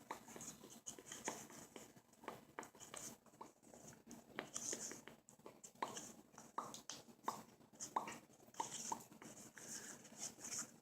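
Faint handling noises of baseball trading cards being sorted by hand: scattered light clicks and taps with brief soft brushing sounds as cards slide against each other.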